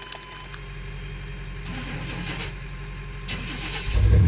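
Big-block V8 (an 8.1-litre Chevy swapped into a 1980 Chevy C30 rollback) cranking on the starter, then catching and running about four seconds in, with a sudden jump to a loud, low rumble.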